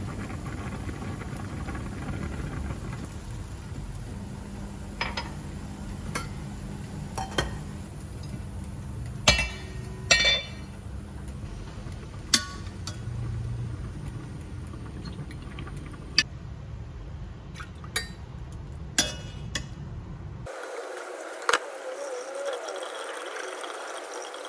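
Kitchen dishes and utensils clinking: about ten sharp, separate clinks over a steady low hum. The hum cuts off suddenly about twenty seconds in.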